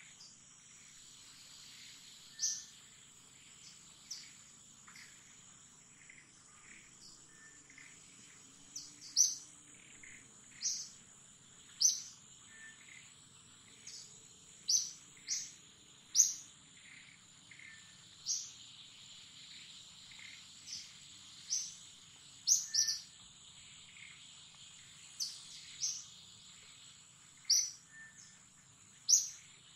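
Short, high bird chirps repeating irregularly every second or two, some in quick pairs, over a steady high-pitched insect drone.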